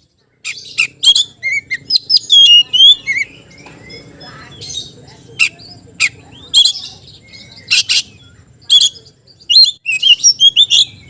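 Oriental magpie-robin (kacer) singing its challenge call to a rival: a quick run of rising and falling whistles in the first few seconds, then sharp, scattered chirps that bunch together again near the end.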